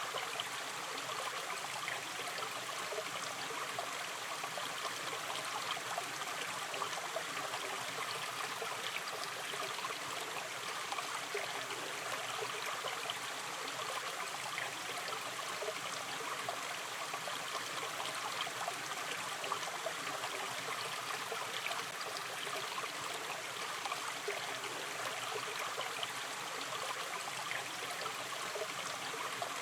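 A shallow river stream running steadily, its water trickling and babbling over the streambed in an even, continuous rush.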